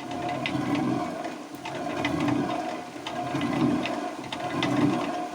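Traditional water mill running: a steady rush of water with a low pulse about every 1.3 seconds and scattered sharp clicks.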